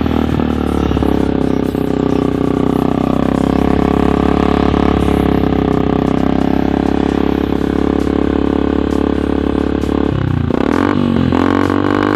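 Yamaha Vixion's 150 cc single-cylinder four-stroke engine running through an aftermarket racing exhaust, held at a steady speed. About ten seconds in, the engine drops and revs back up.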